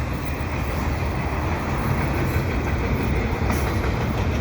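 Canadian Pacific freight train rolling past below, a steady low rumble of wheels on rail.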